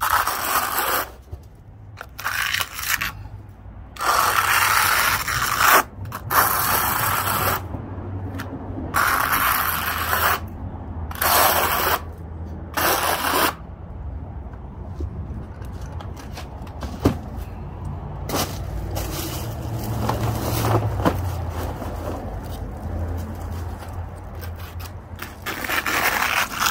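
Trowel strokes scraping acrylic cement skim coat over concrete: a run of separate strokes each about a second long, with a steadier quieter stretch from about halfway through.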